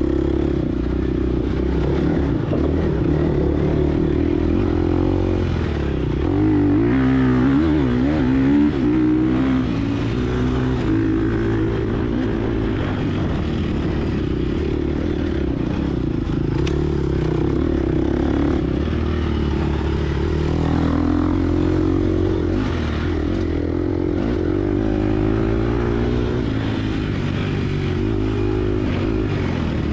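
Gas Gas EX250F dirt bike's 250 cc single-cylinder four-stroke engine under hard riding. Its pitch rises and falls repeatedly as the throttle is opened and closed, with the biggest swings about a quarter of the way through.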